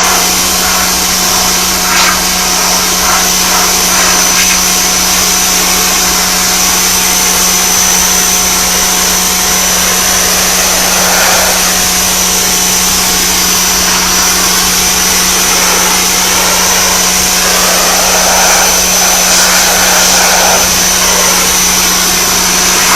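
Greenworks 1500 PSI electric pressure washer running steadily, a continuous motor-and-pump drone with a steady high whine and the hiss of the high-pressure water jet as it sprays the fence planks.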